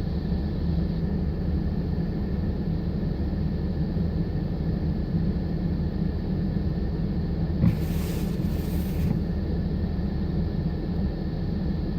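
Steady low rumble of blizzard wind buffeting the microphone, with two short bursts of hiss about eight seconds in.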